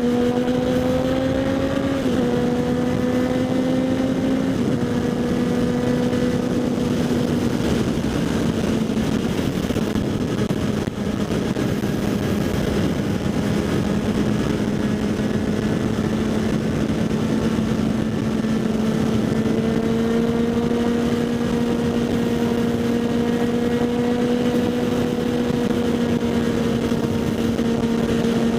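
Kawasaki Z800 inline-four with a LeoVince SBK aftermarket exhaust running at a steady cruising pitch, with wind rushing over the helmet-mounted microphone. The engine note dips slightly about 2 and 5 seconds in and sags slowly, then holds steady, rising gently in the second half.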